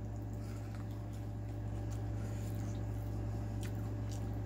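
Faint mouth clicks and soft chewing of a bite of seasoned corn on the cob, a few short clicks scattered over a steady low hum.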